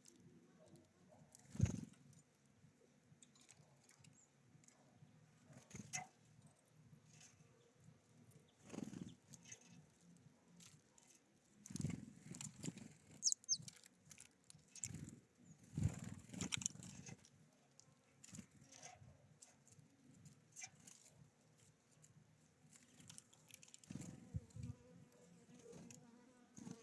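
Small birds at a feeder: faint, irregular taps and thumps of birds landing, hopping and pecking, with a few brief high chirps, one of them a quick falling chirp.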